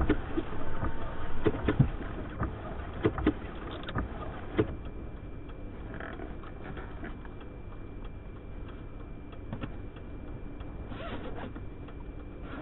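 Steady low rumble of blizzard wind and the vehicle heard from inside a truck cab, with a run of sharp knocks and scrapes over the first few seconds before it settles to a steadier, quieter rumble.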